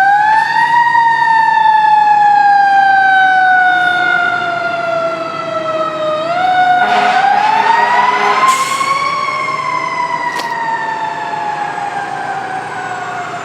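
Fire engine siren sounding as the engine responds to a call: its pitch climbs quickly and then falls slowly, twice, with short noisy blasts in the middle, and it grows fainter toward the end as the truck moves away.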